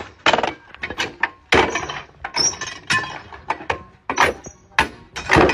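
A run of irregular knocks and clatters: a dozen or so sharp strikes with short gaps between them, the loudest near the end.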